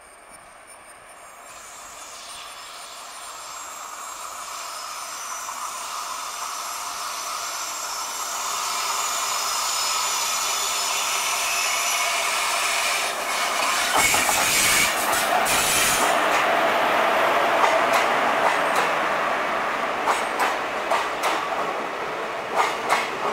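WAP-4 electric locomotive hauling a passenger train, approaching and passing close by, its rolling noise growing steadily louder to a peak about two thirds of the way in. Near the end the coach wheels click in quick succession over the rail joints.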